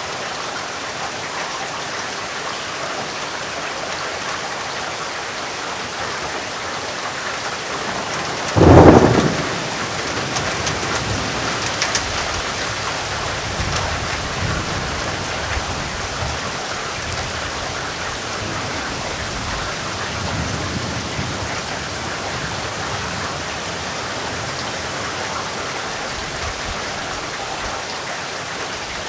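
Steady heavy rain with a sudden loud thunderclap about eight seconds in, followed by low rumbling that fades away over the next ten seconds or so.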